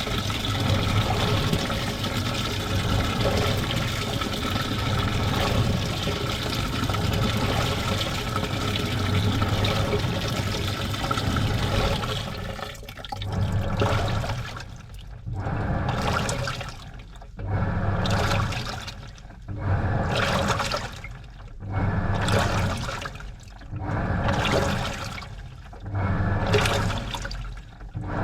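Washing machine washing a load: steady rushing and sloshing water at first. From about twelve seconds in, it changes to a regular wash rhythm, the drum or agitator turning and churning the water in surges about every two seconds, each with a low motor hum.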